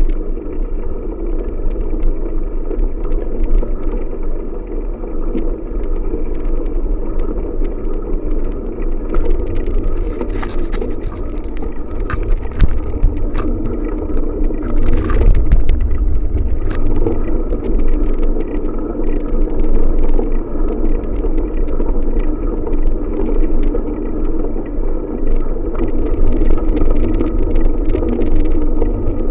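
Steady wind rumble on the microphone while cycling, with scattered small clicks and rattles.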